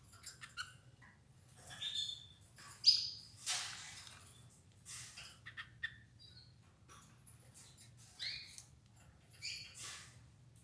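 Domestic canaries giving a few short chirps while feeding on escarole, with light clicks and rustling in between.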